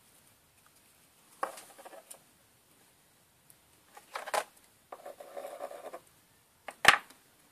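Small plastic parts and a glue tube being handled on a bench: a few brief scrapes and rubbing sounds, then one sharp click near the end.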